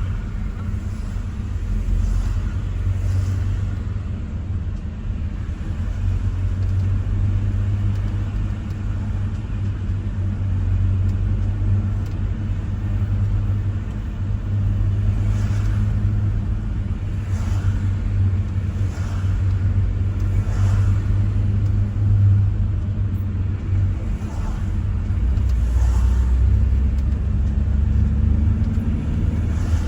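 Steady low rumble of a car on the move, with faint brief swishes recurring every second or two.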